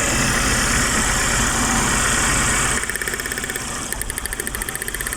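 Suzuki APV four-cylinder engine running at idle with a steady pulsing beat, shaking because one ignition coil is dead and its cylinder is misfiring. About three seconds in a hiss drops away and a fast, even ticking comes up over the idle.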